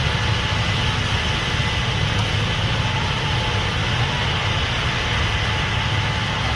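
Case IH 8250 Axial-Flow combine running steadily: an even low engine drone with a hiss above it and a faint steady whine.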